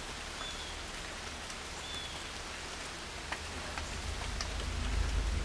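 Pouring rain, a steady hiss with scattered drops ticking, heard from inside a hunting box blind. A low rumble grows louder over the last second or so.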